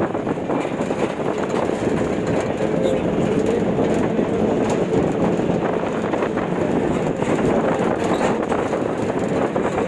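Steady rumble of a moving vehicle with frequent light rattles and clicks, like a train running.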